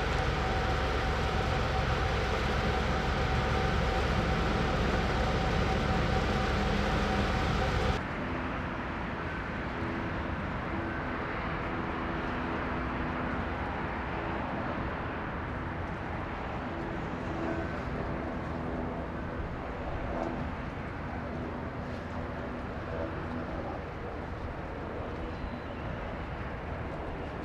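Steady whine of a Boeing 929 Jetfoil's gas turbines over a low rumble. About eight seconds in the sound cuts abruptly to a quieter steady hum with different tones.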